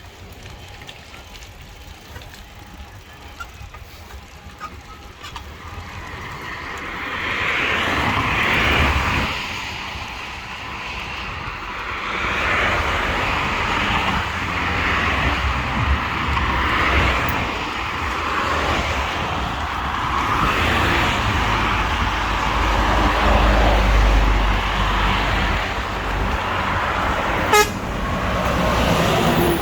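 Road traffic: vehicles passing with a steady rush that swells about six seconds in and stays loud, with one brief sharp click near the end.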